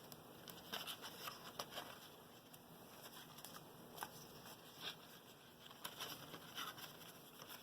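Faint, scattered taps and rustles of cardstock flaps being bent back by hand.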